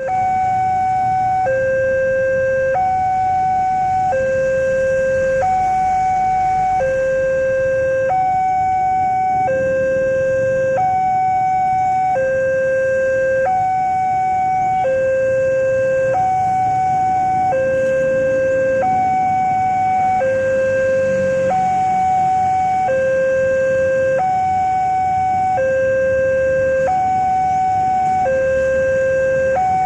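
Railway level-crossing warning alarm sounding a steady two-tone electronic signal, alternating a higher and a lower note about every two-thirds of a second, the signal that a train is approaching the crossing.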